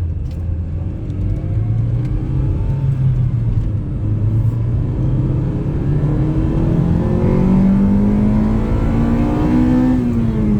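Honda Civic engine revving up under hard acceleration, its pitch climbing steadily for several seconds with a brief dip about four seconds in, then falling away as the throttle is lifted near the end.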